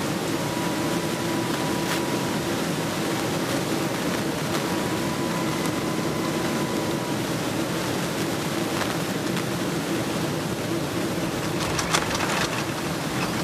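Steady jet airliner cabin noise inside a Boeing 777-300 on landing, with a faint thin whine through the first half. About twelve seconds in there is a short bump with rattling.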